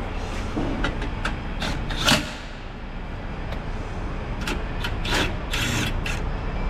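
Scattered clicks and knocks of tools and car body parts being handled during reassembly, with one louder knock about two seconds in, over a steady low hum.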